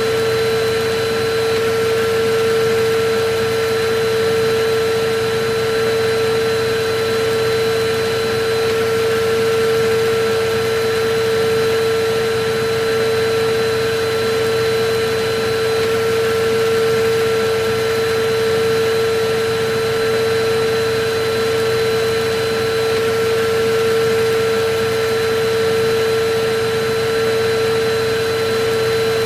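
Electric vacuum cleaner running steadily: an even rushing hiss with a constant motor whine.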